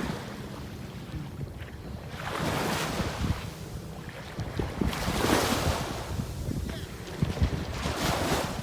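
Jet ski under way at speed: its engine running as a low rumble under heavy wind buffeting on the microphone, with rushing water noise swelling three times.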